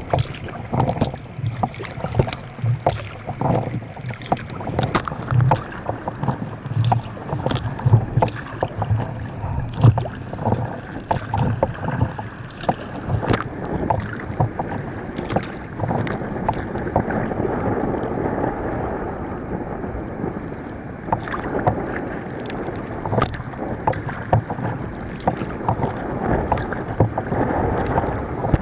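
Sea kayak being paddled through choppy water: paddle blades splashing and dripping, and water slapping and lapping at the hull in many irregular small splashes. A low buffeting in the first half gives way to a steadier rush of water past the boat after about halfway.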